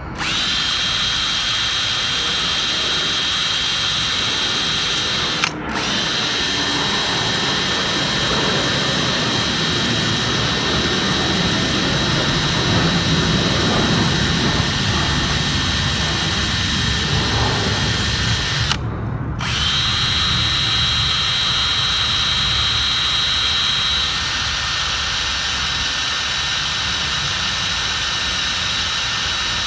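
Electric drill fitted with a wire brush, running steadily as it scours rust off a weed eater's ignition-coil contacts. The steady whine breaks off very briefly twice, about five seconds in and again near nineteen seconds.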